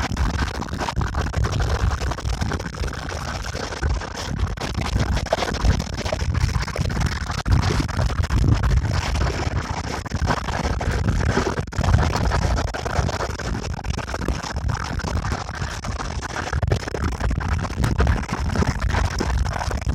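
Wind buffeting the microphone: a loud, uneven rumble of wind noise that rises and falls.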